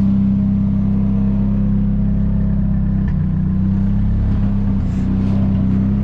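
Turbocharged Nissan KA24DE 2.4-litre inline-four in a 240SX running steadily with a misfire, which the owner suspects comes from a dirty injector.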